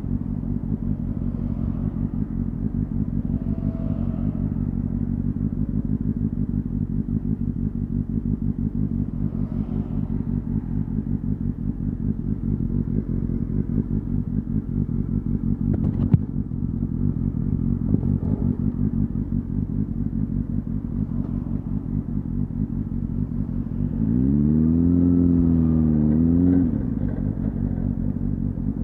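Honda Hornet 250's inline-four engine idling steadily through its exhaust, with a single sharp click midway. Near the end the throttle is opened for a little over two seconds: the engine note rises, wavers, then drops back to idle.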